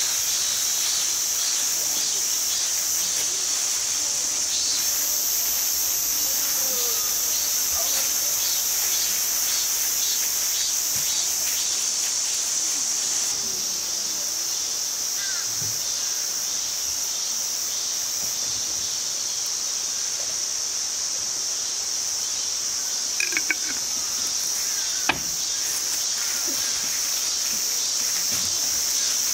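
Dense chorus of insects singing in the trees, a steady high-pitched shrill that pulses in the first few seconds. A few short clicks come near the end.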